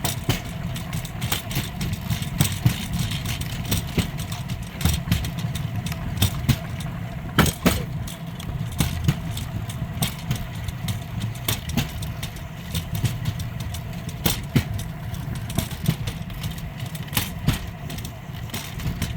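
Rail bike's steel wheels rolling along old railway track: a steady rumble with irregular clicks and clacks from the rail joints, a few louder knocks along the way.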